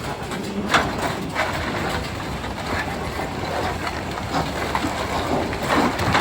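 Doosan DX390 excavator working rock: its diesel engine runs steadily under a string of irregular clanks and knocks, as rock strikes the bucket and rock.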